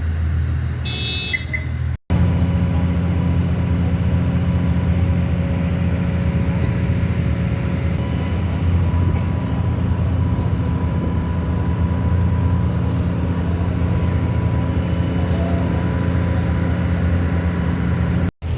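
A ferry's engine running with a steady low drone that holds an even pitch throughout. A brief high chirp sounds about a second in, and the sound cuts out abruptly twice.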